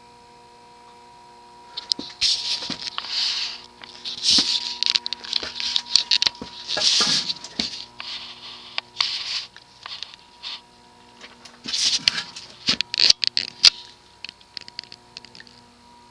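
Ceiling fan's spinner-type motor humming steadily. From about two seconds in, irregular scraping, rustling and clicking comes and goes as the fan is coaxed to start turning; its bearings are a little sticky.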